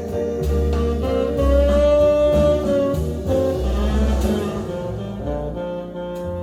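Instrumental break in a jazz ballad with no singing: a lead instrument plays long held melody notes over a bass line and band accompaniment.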